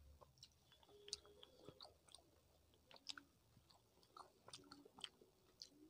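Faint, close-miked chewing with scattered wet mouth clicks and smacks, from a person eating rice and curry by hand.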